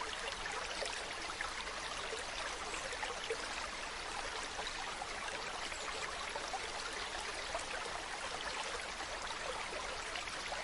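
Mountain stream running over rocks: a steady rush of flowing water with fine splashing and trickling.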